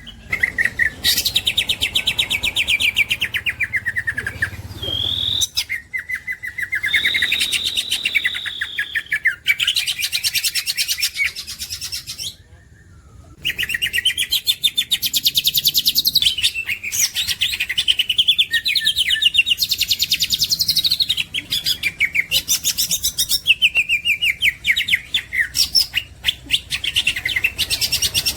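Green leafbird (cucak ijo) singing a long, varied, high-pitched song of rapid chattering trills and whistled glides, with a short pause about twelve seconds in.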